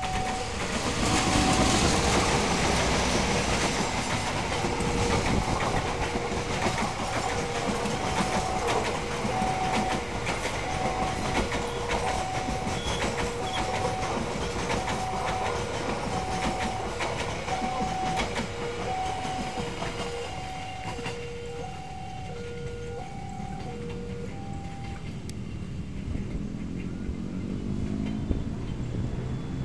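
KA Bima, a locomotive-hauled Indonesian express passenger train, passing a level crossing at speed. The locomotive goes by first, then the coaches' wheels clatter over the rail joints, and the train fades as it moves away. The crossing's warning alarm rings throughout as a steady two-tone chime, alternating low and high notes, and it stops a few seconds before the end.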